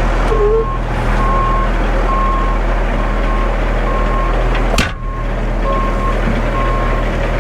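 Concrete mixer truck reversing: its backup alarm beeps a little faster than once a second over the steady hum of the diesel engine. A single sharp click sounds about five seconds in.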